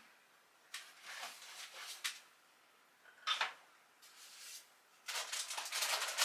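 Kitchen handling sounds: a series of short rustles and clatters as things are moved about and set down, in a few separate bursts with a busier stretch near the end.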